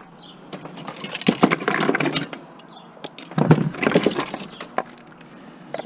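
Clicking, knocking and rattling of a plastic electronics casing and small parts being handled and pried at, in two bursts about a second and a half long each.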